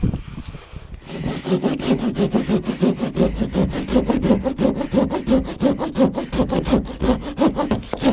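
Hand saw cutting dead wood, in quick, steady back-and-forth strokes about four a second, starting about a second in.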